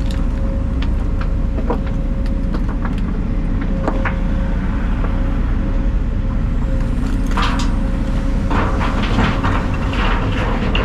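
Heavy diesel engine running steadily: a deep rumble with a faint steady whine, and clicks and rattles that grow busier in the second half.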